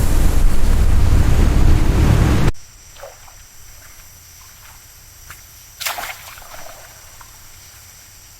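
Loud, steady rushing noise that cuts off abruptly about two and a half seconds in. A quiet stretch follows, with a few faint short sounds and a brief louder rustle about six seconds in.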